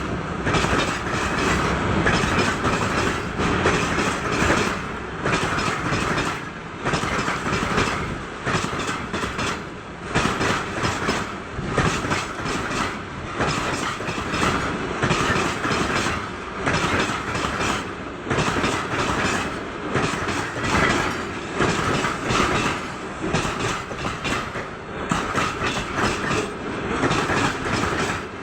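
Wagons of a heavy freight train rolling slowly past on a steep climb, their wheels clacking over the rail joints in repeated knocks.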